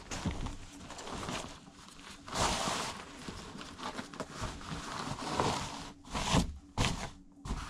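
Irregular rustling and shuffling handling noises, several louder swells of it, over a faint low steady hum.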